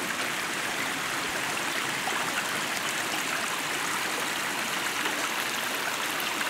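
Small woodland stream running steadily over rocks, a continuous babbling rush of water.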